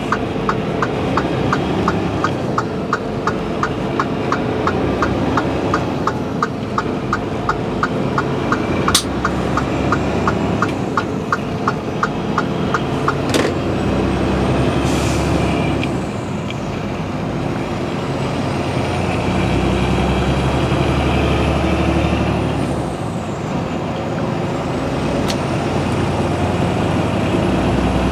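Transport truck driving, heard from inside the cab: a steady engine and road drone. A regular ticking, about two to three ticks a second, runs through the first half and stops about 13 seconds in. A faint high whine rises and falls near the end.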